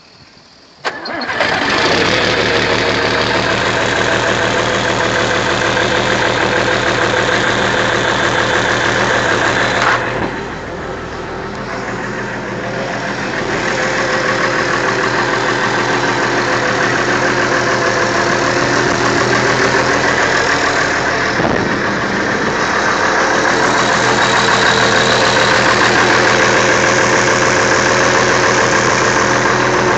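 Engine cold-starting about a second in and catching almost at once, then running steadily; it has been warmed by a block heater and given a jump at 8 degrees. Its note drops briefly about ten seconds in and recovers.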